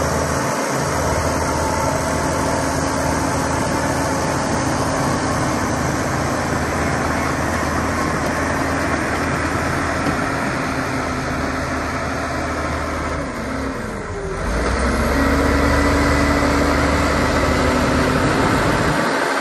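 Diesel engine of heavy earthmoving machinery running steadily. About fourteen seconds in its note dips and falls, then it comes back louder with a deeper drone.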